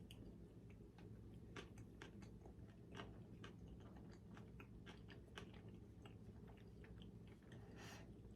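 Faint chewing of food: scattered soft mouth clicks at an irregular pace, over a low steady hum.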